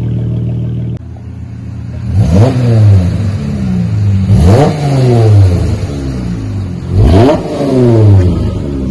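2021 Dodge Charger GT's 3.6-litre V6 idling through a straight-through Flowmaster Super 10 muffler with the rear mufflers deleted, blipped three times, each rev rising quickly and falling back to idle. The exhaust has the deep rumble of a freer-flowing, louder aftermarket setup.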